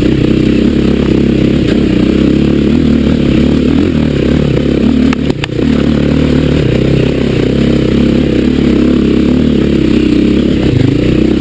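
Dirt bike engine running under load on a rough trail, its pitch rising and falling with the throttle. A sharp knock is heard about five seconds in.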